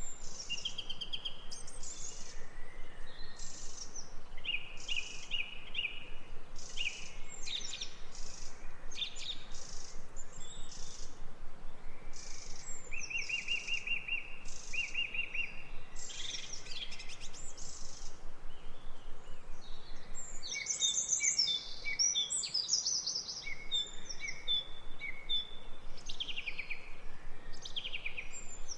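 Songbirds singing: short high calls, quick trills and repeated phrases from more than one bird, busiest about two-thirds of the way through, over a faint steady outdoor hiss.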